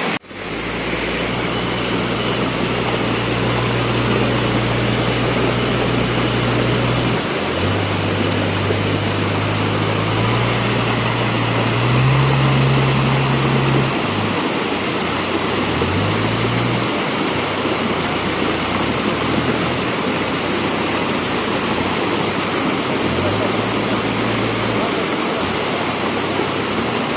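Floodwater rushing in a swollen river, a loud steady roar. Underneath it a low engine hum rises and falls in pitch several times.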